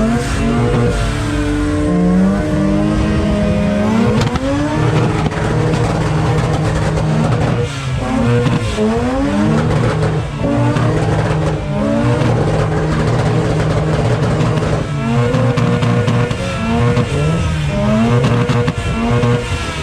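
Car engines being revved over and over, the pitch climbing and dropping every second or two, with more than one engine sometimes revving at once.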